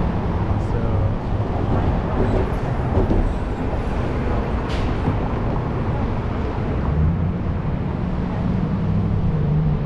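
Steady low vehicle rumble, with a low hum coming in about seven seconds in and a single sharp click about five seconds in.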